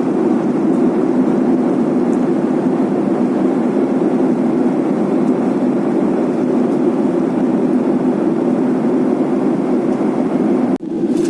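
Steady airliner cabin noise in flight, an even hum of engines and rushing air, dipping for an instant near the end.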